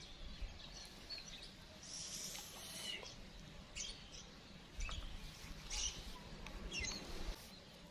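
Scattered short, high bird chirps over a quiet outdoor background. A low rumble of handling noise on the microphone comes in about five seconds in and lasts about two seconds.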